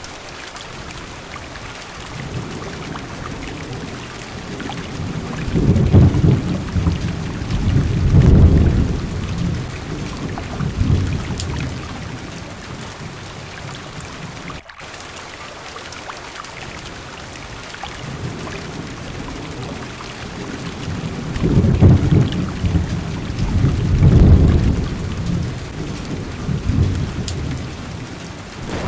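Heavy rain falling steadily, with a long low roll of thunder about six seconds in and another about twenty-two seconds in.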